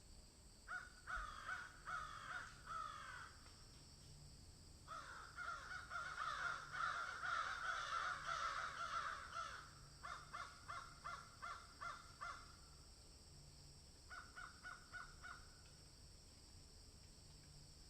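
Birds calling in bouts of short, harsh, rapidly repeated calls, several a second. The busiest bout is in the middle, where the calls overlap, and there are shorter bouts near the start and near the end.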